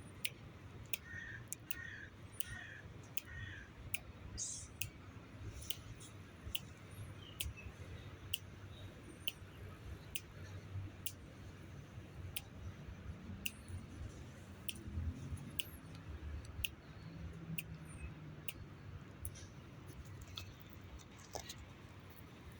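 Squirrel gnawing at a nut shell: irregular sharp clicks and cracks about once a second. Four short bird chirps come about a second in.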